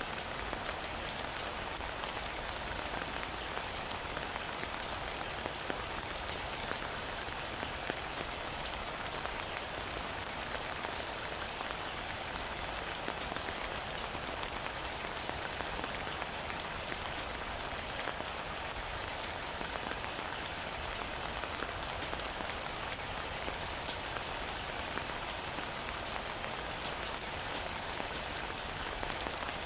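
Steady heavy rain, an even hiss with scattered individual drop ticks.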